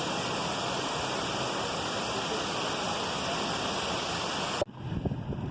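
Waterfall pouring: a steady, full wash of falling water that cuts off suddenly about four and a half seconds in, giving way to quieter low thumps and rumble.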